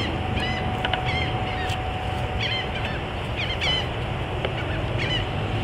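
Birds calling in short, repeated chirps over a steady low rumble.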